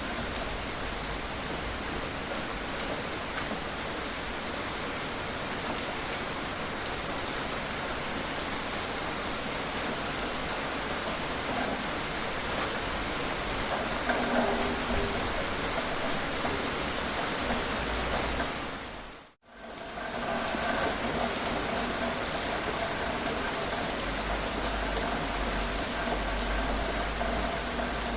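Steady gentle rain falling, an even hiss with scattered drop ticks. About two-thirds of the way through it fades out to silence for a moment and comes straight back.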